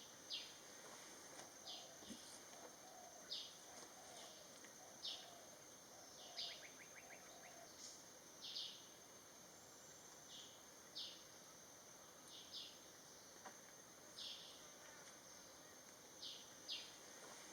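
Faint forest ambience: a steady high-pitched insect drone, with short high call notes from a bird repeating every second or two.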